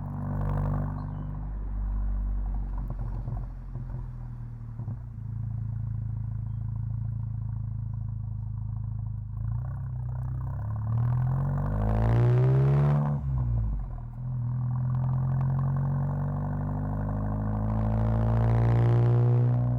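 2016 VW Mk7 GTI's turbocharged 2.0-litre four-cylinder running through a 3-inch downpipe and non-valved aftermarket exhaust while driving: a low steady drone at light throttle, then revving up under acceleration about halfway through and again near the end, each time rising in pitch and dropping back quickly.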